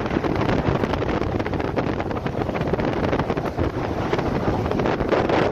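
Strong squall wind blowing across the microphone, a steady dense rush of wind noise with no letup.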